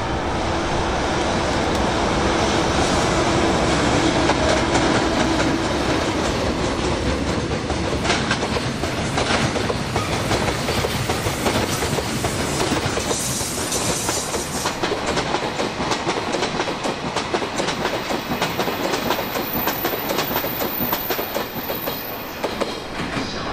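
Freight train rolling past: a JR Freight EF210 electric locomotive and a string of container wagons, wheels clicking over rail joints, with a steady low hum in the first several seconds.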